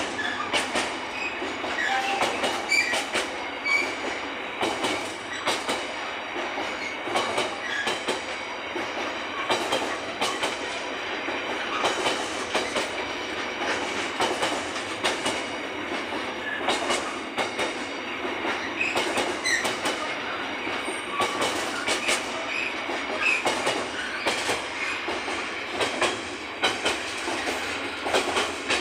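Container freight wagons rolling past, their wheels clattering over the rail joints in a continuous clickety-clack, with brief high wheel squeals here and there.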